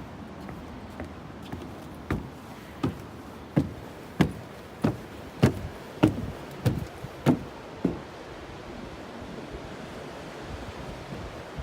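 Footsteps at an even walking pace, about ten steps in a row, over a steady hiss of wind and surf.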